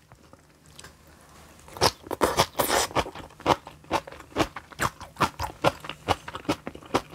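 Close-up chewing of crisp garlic kimchi: a crunchy bite about two seconds in, then steady crunching at about three to four chews a second.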